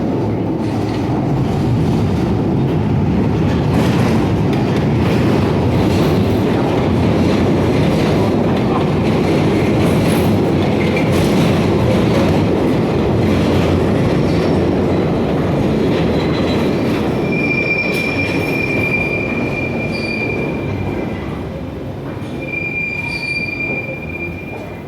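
A train running on the rails with a steady heavy rumble. In the last third, a high-pitched wheel squeal sets in twice, each time for a few seconds, as the rumble eases off.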